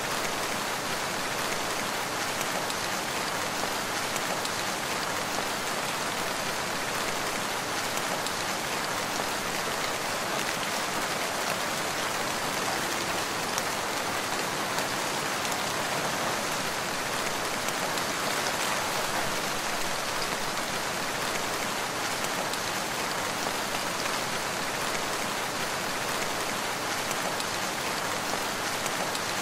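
Steady rain falling, an even, unbroken hiss of drops with no rises or pauses.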